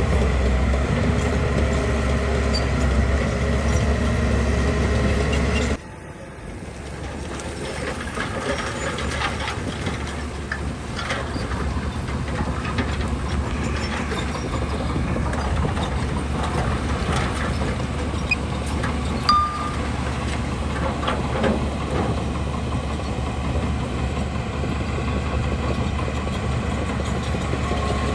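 Bulldozer diesel engine running, with clanking and knocking from the machine working. The sound drops abruptly about six seconds in, then builds back up gradually.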